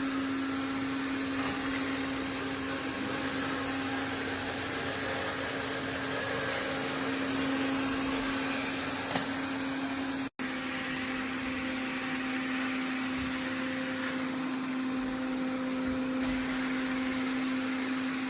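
iRobot Roomba Plus 405 Combo's motor running steadily, a constant hum over an even whir, broken by a short dropout about ten seconds in before it continues.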